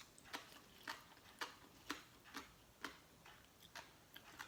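Faint, regular knocking about twice a second, typical of a pestle pounding Thai papaya salad in a mortar.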